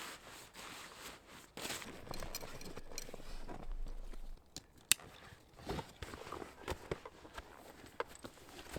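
A person moving about on foot: footsteps and rustling, then a few sharp clicks and knocks.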